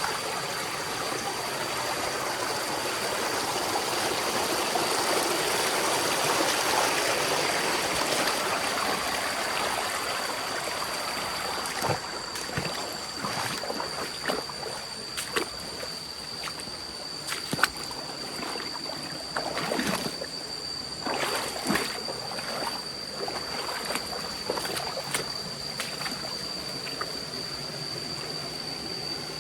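A forest stream running and trickling, its rush swelling and then easing over the first ten seconds. In the second half, irregular sharp knocks and ticks sound over the water, and a steady high-pitched tone runs underneath.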